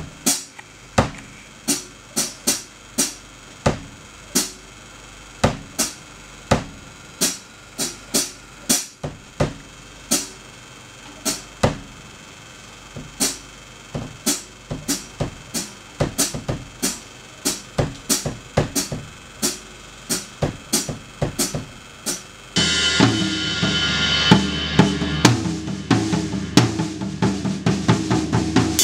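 Acoustic drum kit being played in a studio recording take: separate kick, snare and cymbal hits spaced out at a slow tempo, then, about three-quarters of the way in, a sudden change to a louder, dense full-kit beat with ringing cymbals.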